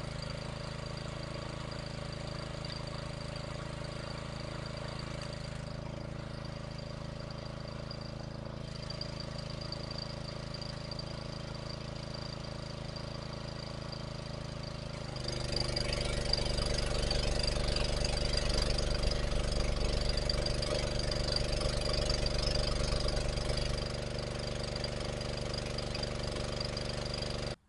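Honda pressure washer's small gas engine running steadily with a high steady whine. About halfway through it gets louder and a hiss is added, then it eases slightly near the end and cuts off abruptly.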